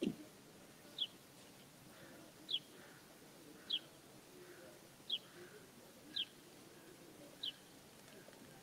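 A small bird repeating one short, falling chirp about every second and a bit, seven times, over faint open-air background. A brief low thump right at the start.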